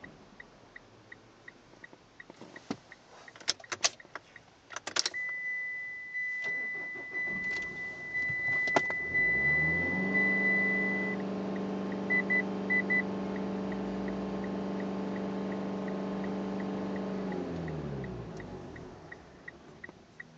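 Mitsubishi Outlander 2.2 DI-D four-cylinder diesel engine heard from inside the cabin: its note rises about ten seconds in, holds steady for some seven seconds, then falls away near the end, on a fuel filter frozen in the cold. Before that come a few sharp clicks, a dashboard warning chime holding one steady tone for about six seconds, then a few short beeps, over light regular ticking.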